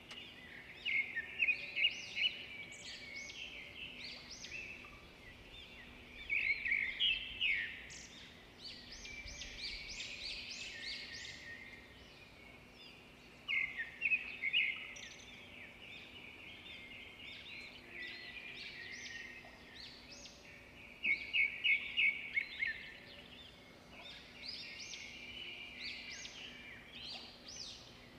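Songbirds singing: bursts of quick, high chirping phrases come every several seconds over a faint, steady hum of outdoor background noise.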